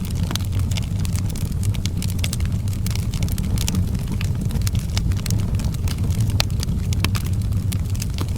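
Fire in an outdoor fireplace crackling, with frequent irregular sharp pops and snaps over a steady low rumble.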